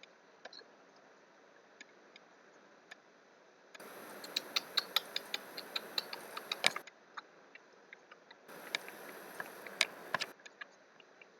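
Typing on a computer keyboard in two quick bursts of irregular key clicks, the first starting about four seconds in and the second shorter one near the end.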